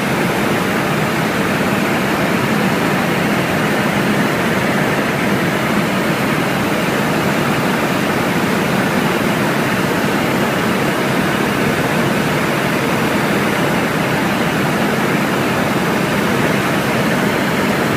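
Steady, loud noise of a helicopter in flight heard from inside the cabin: engine, rotor and airflow blended into an even rush.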